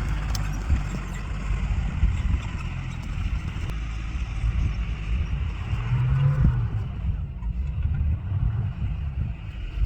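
Suzuki vehicle's engine running while driving, with a low rumble throughout and a brief rev about six seconds in.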